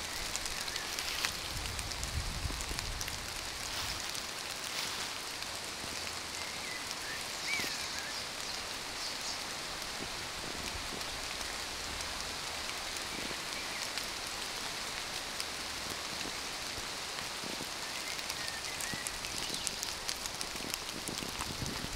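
Steady rain falling in a forest, a dense patter of many small drops.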